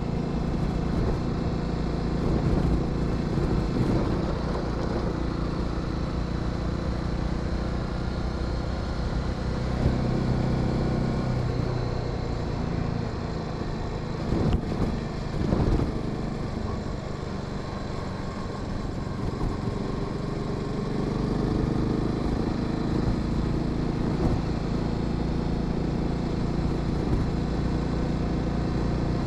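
Honda Sahara 300 single-cylinder engine running under way. Its pitch rises and falls with the throttle and gear changes, over steady wind and road noise, with a few brief knocks about halfway through.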